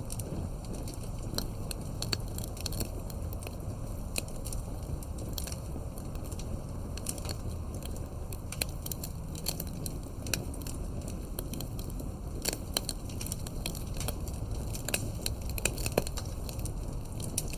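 Wood fire burning: a steady low rumble with irregular sharp crackles and pops from the burning wood, a few louder pops near the end.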